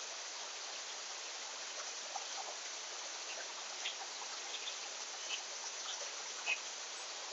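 Steady outdoor insect chorus with a high, even buzz, and a few short, faint bird chirps scattered through it.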